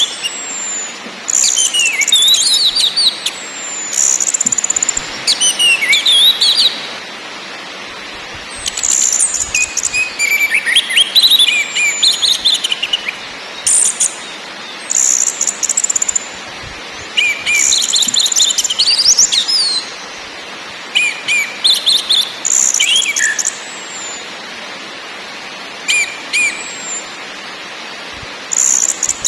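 Orange-headed thrush singing in separate phrases a second or two long, with short pauses between them. Rasping, buzzy notes are mixed in with clear whistled slurs that glide up and down.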